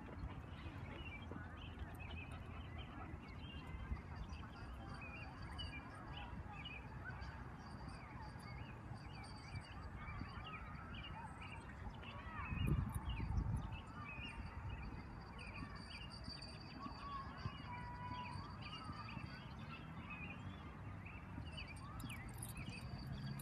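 Birds chirping, many short calls overlapping, over a low rumble that swells briefly about halfway through.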